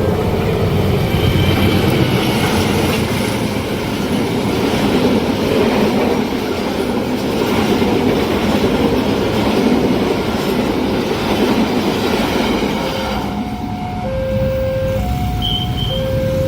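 A train passing at speed over a level crossing, its wheels running loudly over the rails. The crossing's warning signal, two tones alternating steadily, sounds underneath and stands out again near the end as the train noise eases.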